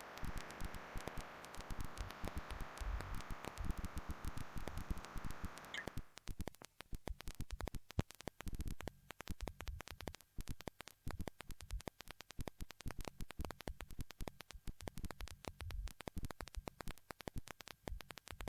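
Static: a steady hiss for about the first six seconds, then a dense, irregular crackle of clicks.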